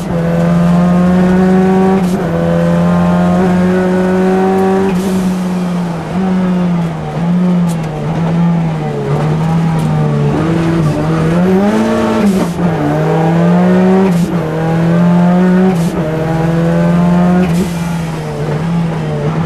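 Ford Sierra RS Cosworth's turbocharged four-cylinder engine under hard rally driving, heard from inside the cabin. Its pitch climbs through the gears and drops sharply at upshifts about two and five seconds in, then rises and falls with throttle and braking through a series of bends, with a short rise around twelve seconds in.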